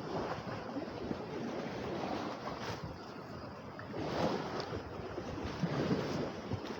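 Lake waves washing onto the shore, with wind buffeting the microphone; the surf swells louder about four seconds in and again near six.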